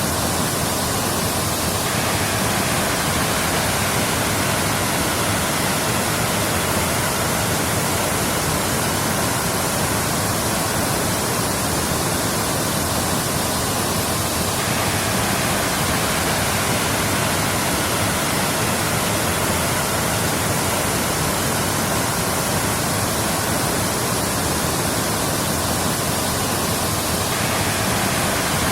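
Waterfall: a steady, even rush of falling water, with a slight shift in its texture every twelve or thirteen seconds.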